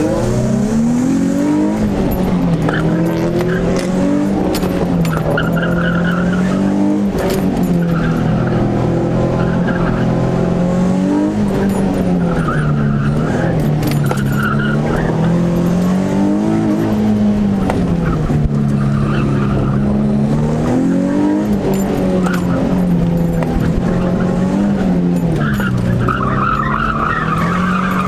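Nissan 350Z's 3.5-litre V6, heard from inside the cabin, revving up and dropping back again and again as the car is driven hard around an autocross course. Short bursts of tyre squeal come in the corners, the longest near the end.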